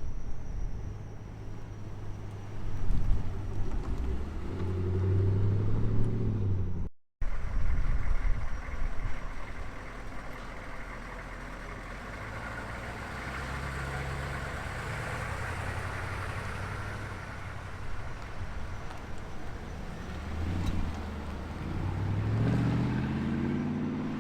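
Muscle car engines running and revving as the cars pull out. The pitch rises as a car accelerates away, once a few seconds in and again near the end.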